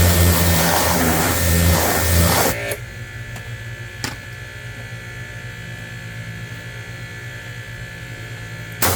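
A loud motor-driven machine runs with a strong low hum, then cuts off suddenly after about two and a half seconds, leaving a quieter steady hum with a single click about four seconds in; the loud machine sound comes back abruptly near the end.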